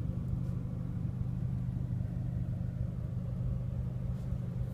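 The CLA45 AMG's 2-litre turbocharged inline four-cylinder engine idling, a steady low hum heard from inside the cabin.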